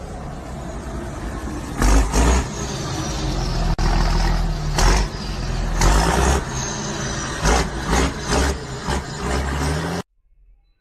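A vehicle's engine running, with loud sudden bangs or jolts about 2, 5, 6, 7.5 and 9 seconds in. The sound cuts off sharply near the end.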